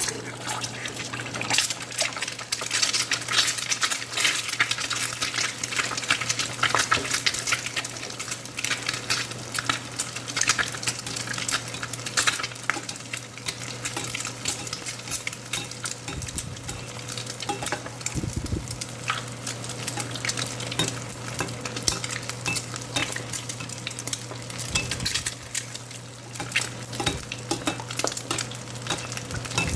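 An egg frying in hot oil in a pan, sizzling steadily with dense crackling spatter.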